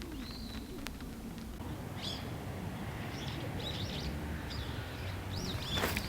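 Small birds calling outdoors, a scatter of short high chirps and one arching call, over a steady low background hum.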